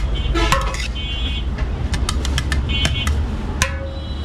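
Busy street ambience: a steady low traffic rumble with a quick series of sharp metallic clicks and short ringing clinks partway through.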